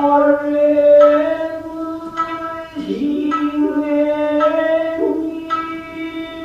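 Traditional Japanese dance music: a singer holding long, drawn-out notes over a shamisen plucked about once a second.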